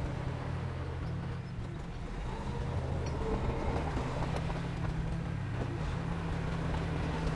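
Heavy construction machinery's diesel engine running steadily at a low drone. The engine eases slightly about a second and a half in, then picks up again.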